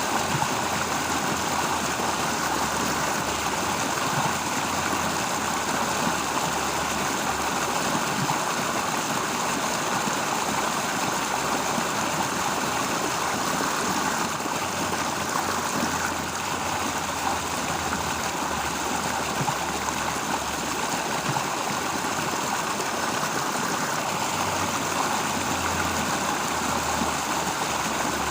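Steady rushing of a flowing stream, with a low hum underneath.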